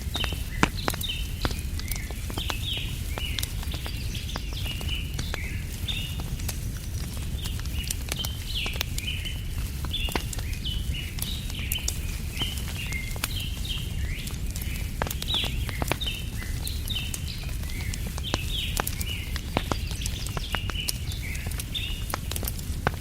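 Campfire crackling with many sharp pops, under a steady low rumble, while small birds chirp quickly and without pause.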